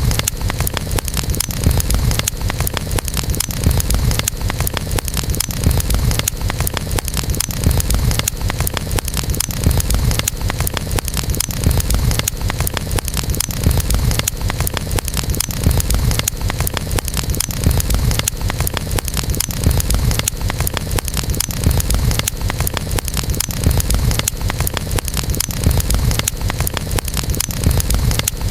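Campfire burning, the wood crackling with many quick sharp pops over a steady low rumble.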